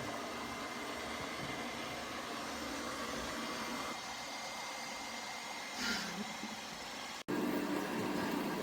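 Robot vacuum cleaner running with a steady whirring hum and a faint high whine. About seven seconds in, it cuts off abruptly and a louder, different machine sound takes over.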